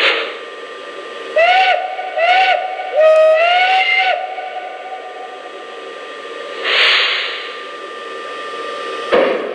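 Sound system of a Lionel Legacy PRR B6sb 0-6-0 model steam locomotive playing its steam whistle: two short toots, then a longer blast about three seconds in, over a steady steam hiss. Two more bursts of released steam hiss follow, one near the middle and one just before the end.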